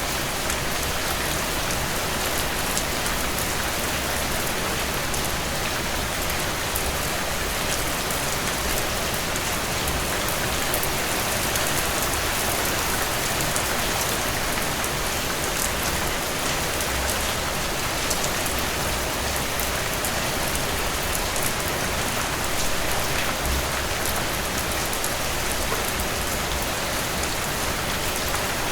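Heavy rain drumming on a tin roof: a steady, dense hiss of falling water with fine drop ticks throughout.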